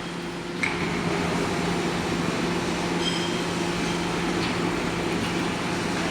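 Steady industrial hum and rushing noise of a running induction melting furnace plant, with a constant low tone. It grows louder about half a second in.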